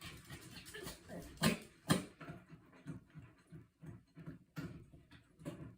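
Small dog, a Pomeranian, panting and snuffling, with two sharp clicks about one and a half and two seconds in.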